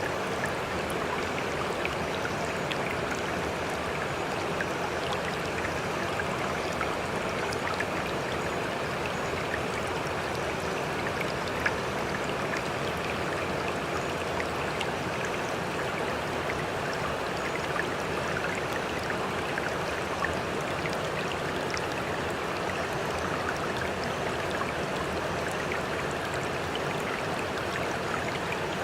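Sea water splashing and rushing steadily, with small droplet ticks scattered throughout.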